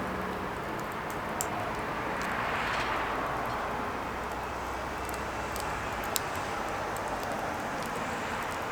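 Firewood burning, with scattered sharp crackles and pops over a steady rushing noise that swells and fades.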